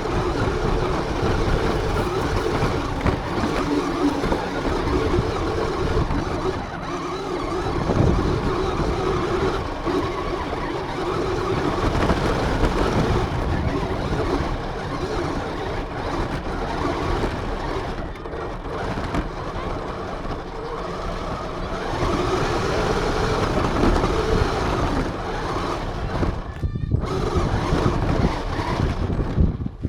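Radio-controlled car running over the ground, its motor and drivetrain heard close up from a camera mounted on the car. The running note wavers up and down with the throttle, over a steady rough noise.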